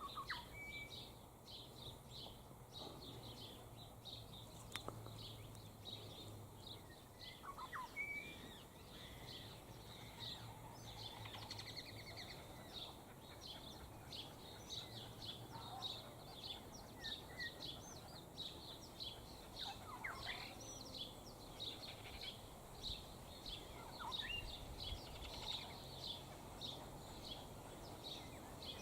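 Faint outdoor ambience: a steady run of high, rapid chirping, with a few short bird calls scattered through and a faint low hum underneath.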